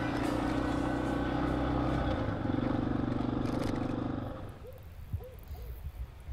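Yamaha XT250's single-cylinder four-stroke engine running steadily while riding, stopping abruptly about four seconds in. Quiet outdoor background with a few faint short chirps follows.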